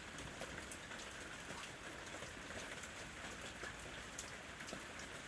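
Steady rain falling on a house roof, a constant hiss with many scattered individual drop ticks.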